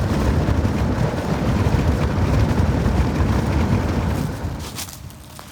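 Wind buffeting the microphone while cycling, a loud low rumble that dies away about four and a half seconds in.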